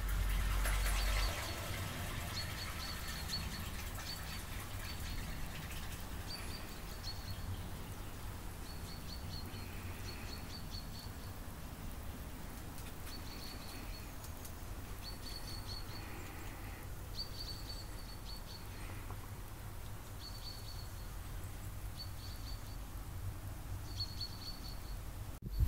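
A small bird calling over and over, short high chirps every second or two, over a steady low outdoor rumble that is louder for the first second.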